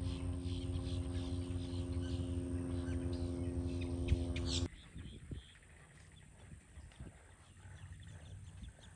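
A steady low droning hum for the first half that cuts off abruptly, then faint scattered bird chirps.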